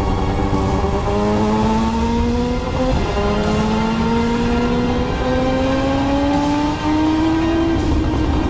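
Crighton CR700W superbike's two-rotor rotary engine pulling hard. Its pitch climbs steadily and dips briefly at each of several upshifts as the bike accelerates.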